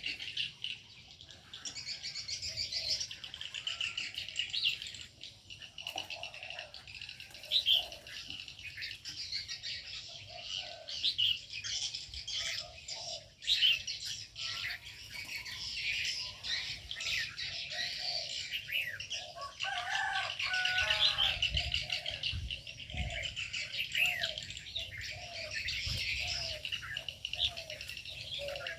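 Many small aviary birds chirping and twittering together in a dense, continuous chorus. A lower call is repeated about twice a second through the second half.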